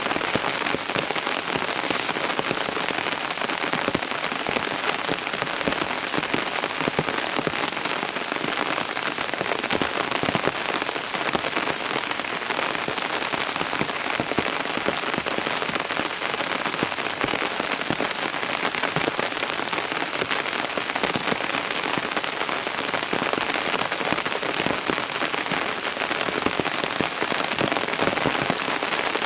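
Steady rain falling, a dense, even patter of many drops hitting surfaces, with no let-up or change in strength.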